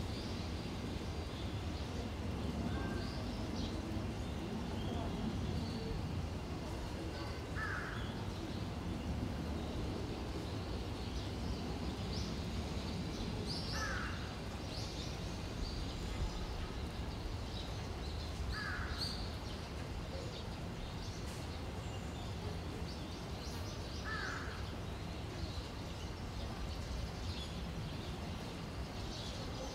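A bird giving short single calls about every five seconds, with faint higher chirps of small birds and a steady outdoor background hiss.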